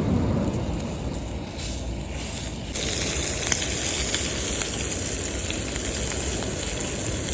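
Food sizzling as it cooks: a steady high hiss with a few faint crackles that starts sharply partway through, over a low rumbling background noise.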